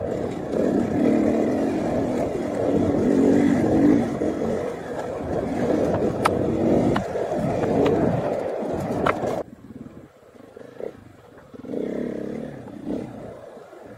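KTM 500 EXC single-cylinder four-stroke enduro engine running under varying throttle on a trail ride, with a few sharp clicks over it. About nine and a half seconds in the loud engine sound cuts off abruptly, leaving a much quieter background that swells briefly near the end.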